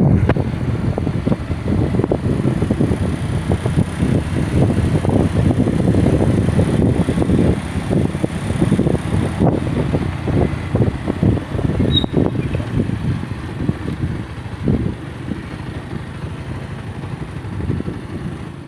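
Road-vehicle noise: a steady, fluctuating low rumble that eases a little in the last few seconds.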